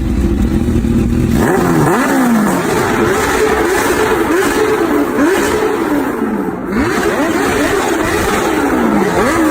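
Kawasaki Ninja H2's supercharged inline-four running through a Brock's performance exhaust, revving hard. From about a second and a half in, the engine note climbs and drops over and over.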